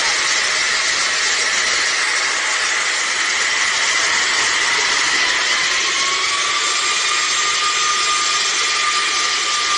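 Aircraft engines running with a steady rushing roar and a whine, one tone of which rises in pitch about five seconds in and then holds, as the engines spool up.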